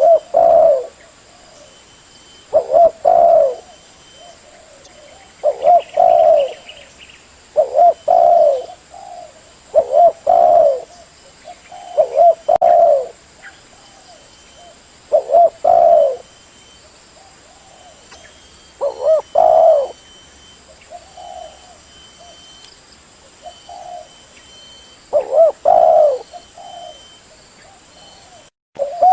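Spotted dove cooing: repeated phrases of a few low, mellow coos, one every two to three seconds, played as a lure call.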